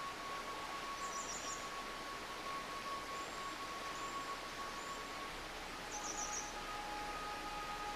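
A stream running steadily with small birds chirping: a quick high trill about a second in, faint thin whistles, and another trill about six seconds in. A soft held tone sounds underneath, changing pitch about five seconds in.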